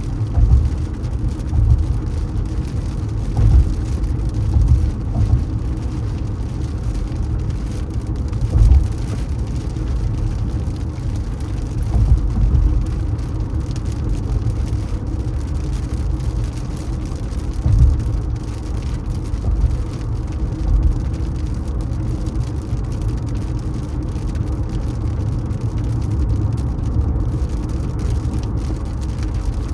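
Car driving on city streets: a steady low road and engine rumble, with several short louder bumps.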